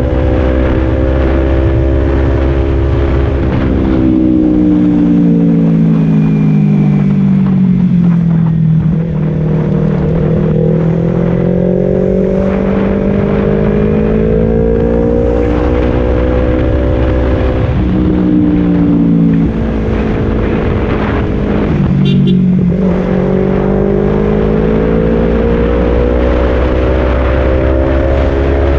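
Kawasaki Z250 parallel-twin engine through a Leovince Cobra aftermarket exhaust, its note rising and falling slowly with engine speed as the bike is ridden. About 22 seconds in, the note breaks briefly and drops before climbing again, like a gear change.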